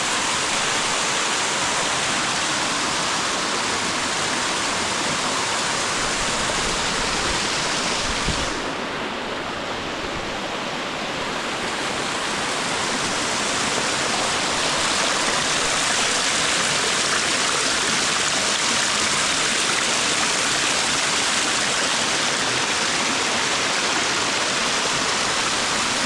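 Natural waterfall pouring steadily, a dense hiss of falling water. About eight seconds in, a brief low rumble is heard and the sound turns duller for a few seconds before it brightens again.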